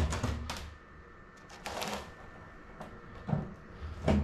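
Irregular clicks, knocks and rustles of plastic parts being handled and pushed into place while fitting a pipe into a plastic barrel, with a short scraping rustle about two seconds in.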